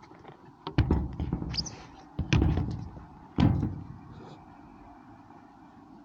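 Three heavy clunks about a second apart, with lighter knocks and a short hiss between them, from handling at a petrol pump.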